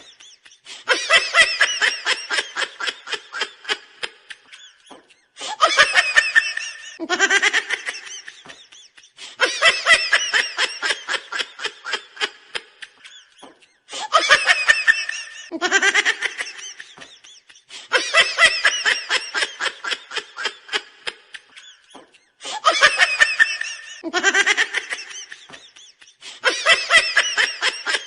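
Looped laughing sound effect: a high-pitched, goofy laugh. It repeats about every eight or nine seconds as one or two short rising whoops, then a fast run of cackles that fades out, heard three times over.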